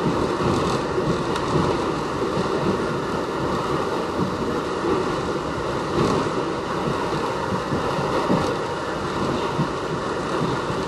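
Westinghouse-built R68 subway car running between stations, heard from on board. A steady roar of steel wheels on rail and running gear, broken a few times by short sharp clicks from the track.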